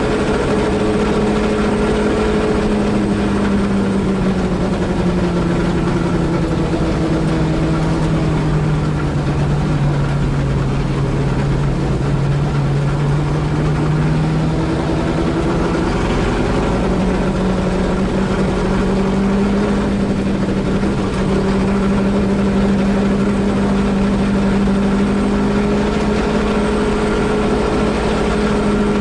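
Holden Torana A9X race car's 308 V8 engine heard from inside the car: the pitch sinks slowly for about ten seconds, climbs back over a couple of seconds, then holds steady at high revs.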